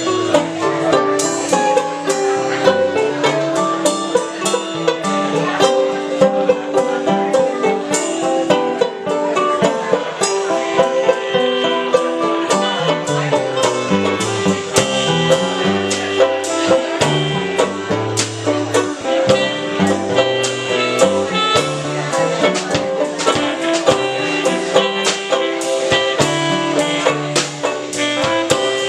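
Live band playing an instrumental passage of a song: quickly picked plucked strings over a moving bass line, without vocals.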